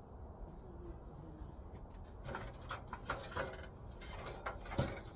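Light knocks and clicks of wood and tools being handled, a cluster of them over the second half with the sharpest knock near the end.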